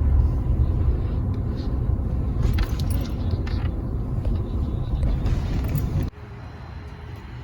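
Low rumble of a truck's engine and tyres while driving, heard from inside the cab, with a few light clicks. About six seconds in the rumble drops abruptly to a much quieter hum.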